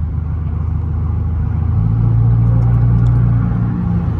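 Car engine and exhaust running with a deep, loud rumble, revving up about two seconds in and holding at the higher pitch.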